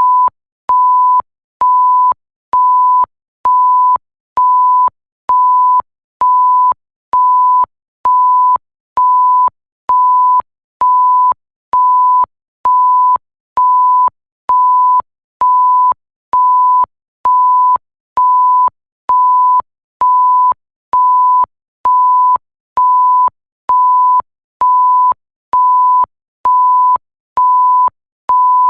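Electronic bleep tone: a pure 1 kHz beep repeating steadily, a little under once a second, each beep lasting just over half a second with short silent gaps between.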